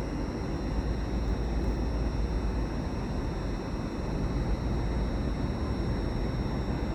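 A train standing at a station platform, its equipment running with a steady low rumble and a faint, constant high-pitched whine.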